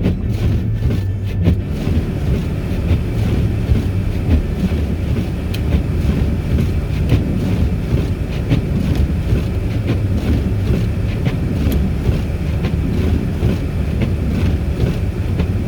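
Small car driving on a snowy road: a steady low rumble of engine and tyre noise.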